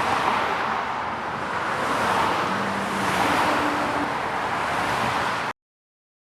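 Sound-effect playback of cars passing by: a steady wash of road and tyre noise that swells twice as vehicles go past, starting abruptly and cutting off suddenly after about five and a half seconds.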